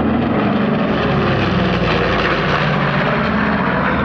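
Loud, steady roar of a PBJ (Navy B-25 Mitchell) making a low attack pass, its twin radial piston engines at high power.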